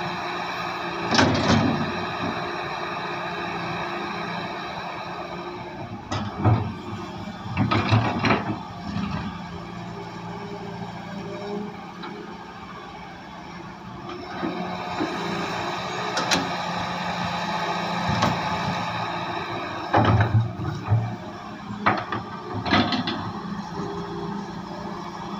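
Heavy excavator's diesel engine running steadily under load, with loud clanks and knocks from the working machine at irregular intervals, several in quick succession around two-thirds of the way through.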